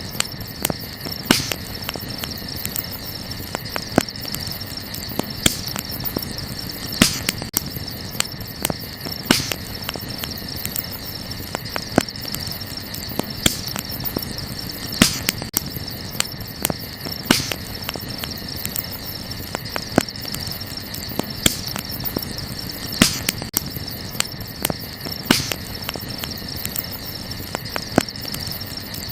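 Wood campfire crackling, with sharp irregular pops of burning wood, over the steady high chirring of night insects such as crickets.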